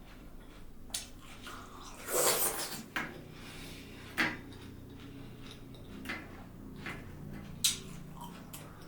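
Close-miked eating sounds: wet mouth clicks and smacks every second or so, with one louder, longer juicy bite or slurp about two seconds in.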